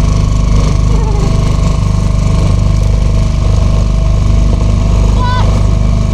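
Small hire boat's outboard motor running steadily at close range, a loud, even low drone. Brief snatches of voice come over it about a second in and again near the end.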